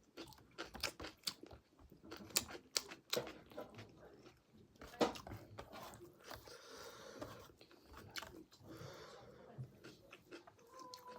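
A person chewing and biting pork close to the microphone, with sharp crunches and mouth smacks through the first half, then softer, wetter chewing.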